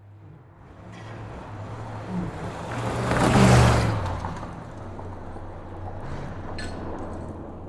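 Muscle car speeding past on a highway: its low engine drone grows louder to a peak about three and a half seconds in, then fades as it goes by.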